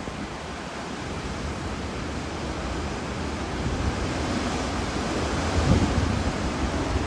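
Hurricane Ian's storm wind rushing steadily and building gradually louder, with gusts buffeting the microphone in low rumbles.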